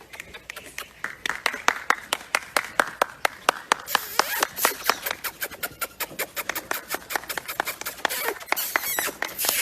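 A rapid, uneven series of sharp taps or clicks, several a second.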